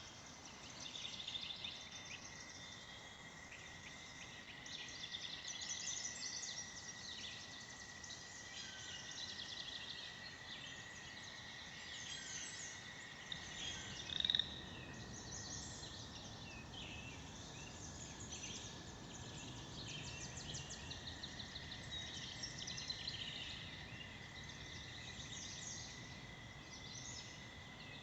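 American toads trilling: a long, steady, high-pitched trill that carries on almost without a break, with chirps and rapid pulsed bird calls layered above it and one brief louder chirp about halfway through.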